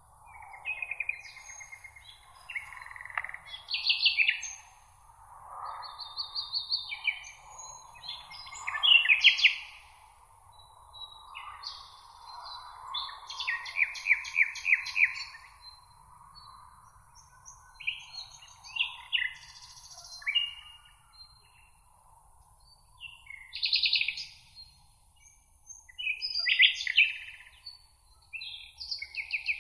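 Songbirds singing: short chirps and fast trills in separate phrases every second or two, with brief pauses between them.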